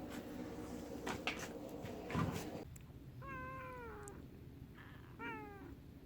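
A domestic cat meowing twice, each meow falling in pitch at the end, the second shorter. In the first two and a half seconds there are a few knocks over a steady hum.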